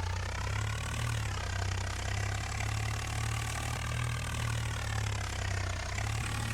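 Swaraj 855 tractor's three-cylinder diesel engine running steadily at idle, its pitch drifting slightly.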